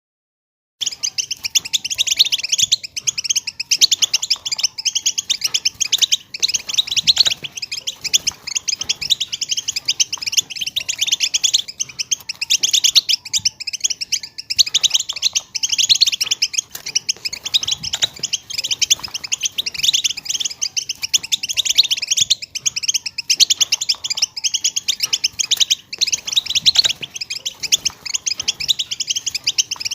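A group of female European goldfinches calling together: a dense, continuous stream of rapid, high twittering chirps. It begins about a second in after a brief silence.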